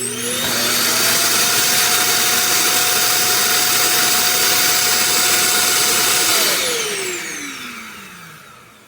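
Vacuum motor spinning up with a rising whine, running steadily for about six seconds, then winding down with a falling whine near the end.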